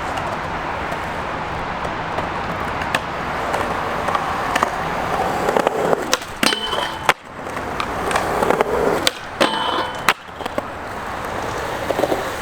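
Skateboard wheels rolling on skatepark concrete. Twice, about six and nine seconds in, a sharp clack is followed by a short, ringing scrape of the board on the obstacle and another clack as it comes off.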